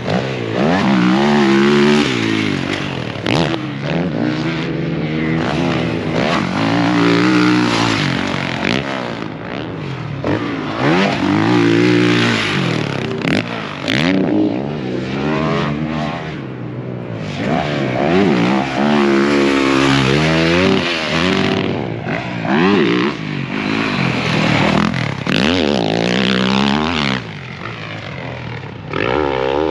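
Motocross dirt bike engine being ridden hard: it revs up and drops back again and again as the throttle is opened and shut through the track's turns and jumps, over a constant rush of noise.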